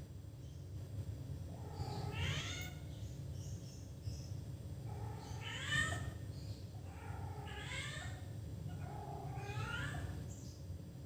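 Domestic cat left alone at home, giving four long, drawn-out meows that bend upward in pitch. It is calling out while alone, a strange voice that is not its usual meow.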